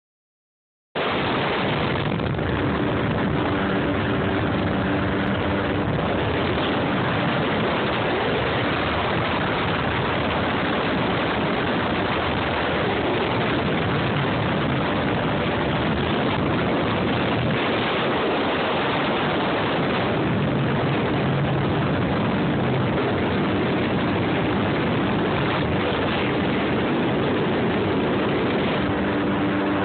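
Jet ski engine running steadily under a loud, even rush of wind and water noise, starting about a second in.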